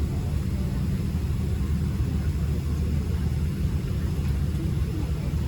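Steady low rumble inside the cabin of a Boeing 777-200 airliner with its engines running.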